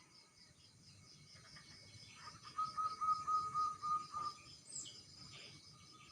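A bird calling a quick series of short, even notes, about five a second, for some two seconds midway, with a brief high falling note just after. Under it runs a steady, high, pulsing insect chirr.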